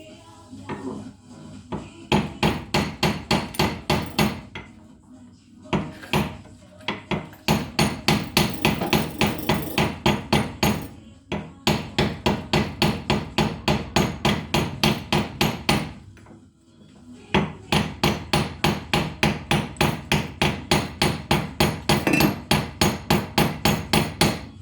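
Rapid hammer blows, about four a second, in four runs broken by short pauses near two, six, eleven and seventeen seconds in.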